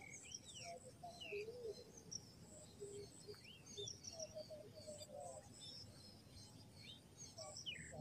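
Faint chirping of small birds: scattered short, falling whistles, with a few short low notes among them.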